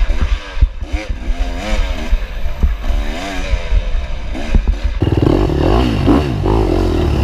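Dirt bike engine riding a rough trail, its pitch rising and falling as the throttle is worked, with clattering from the bike. About five seconds in the sound changes abruptly to a steadier, denser engine noise.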